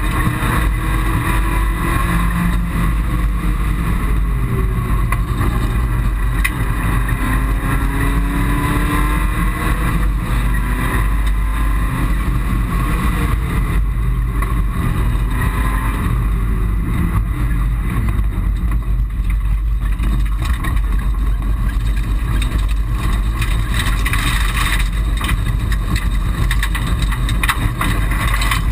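Mitsubishi Colt rally car's engine heard from inside the cabin at speed, its revs rising and falling again and again, over steady road noise.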